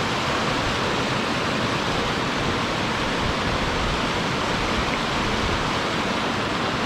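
Rushing water of a forest creek tumbling over rocks and a small waterfall, a steady, even rush.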